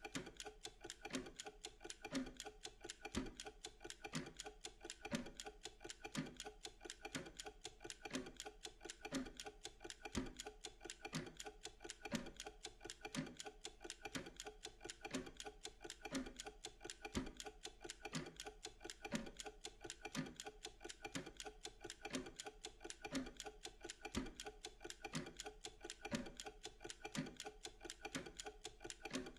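Clock ticking steadily, with quick fine ticks and a lower tock about once a second.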